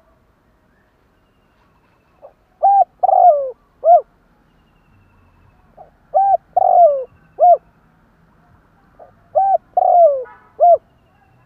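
Spotted dove cooing in the bird's territorial decoy song. Three phrases come a few seconds apart, each a soft short note followed by three coos, the middle coo drawn out and falling.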